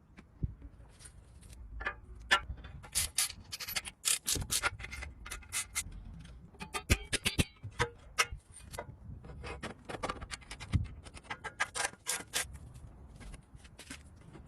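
Irregular scraping, rubbing and sharp clicks of hand-tool work on bicycle parts, coming in quick uneven strokes throughout.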